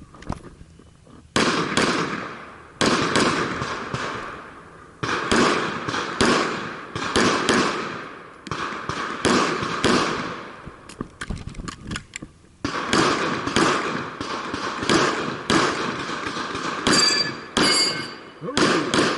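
A string of pistol shots on a timed match stage, roughly one a second, each with a long echoing tail, with a longer break in the middle. Two shots near the end are followed by a brief high ringing.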